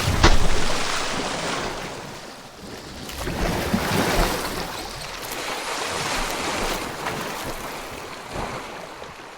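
Rushing, splashing water noise that comes in abruptly, swells again about four seconds in, then slowly dies away.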